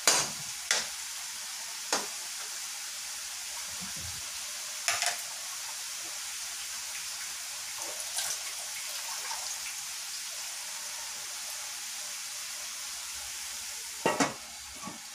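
Chicken pieces sizzling steadily as they sauté in a metal wok, with a few sharp clinks of a metal spatula against the pan in the first two seconds and now and then after. About 14 seconds in, a metal lid clatters onto the wok.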